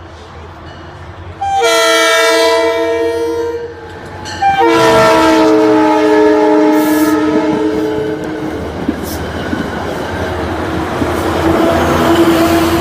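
Horn of a Metro-North Wassaic shuttle diesel train sounding two long multi-note blasts, the second sliding down in pitch as the train passes. The rushing rumble and wheel noise of the train going by follows.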